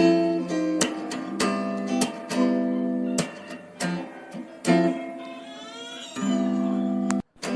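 Acoustic guitar music: sharply strummed chords with ringing notes and a few sliding notes in the middle. The sound cuts out briefly near the end.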